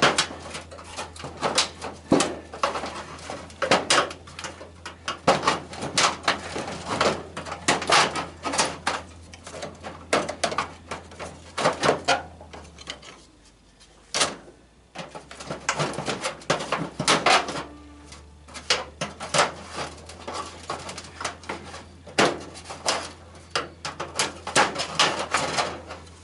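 Irregular clunks, clicks and rattles of a tanning bed's metal and plastic parts being pried and pulled apart by hand, with a short lull about halfway through.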